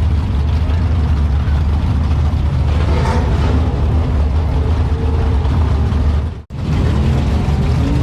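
Turbocharged LS V8 race car engine running at a steady low rumble, with no revving. The sound cuts out abruptly for a moment about six and a half seconds in, then picks up again at the same level.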